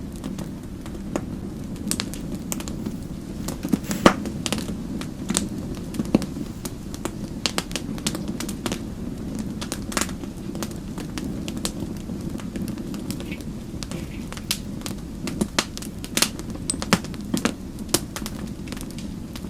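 Wood fire in a fireplace crackling: irregular sharp pops and snaps over a steady low rush of flames, with one louder pop about four seconds in.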